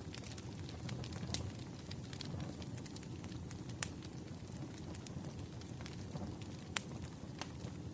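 Wood fire crackling, with frequent sharp pops over a steady low rush of burning logs; the loudest pop comes about four seconds in.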